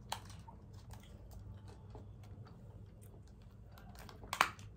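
Close-up eating sounds: chewing momos with small, irregular wet clicks and smacks of the mouth, and one louder click near the end, over a low steady hum.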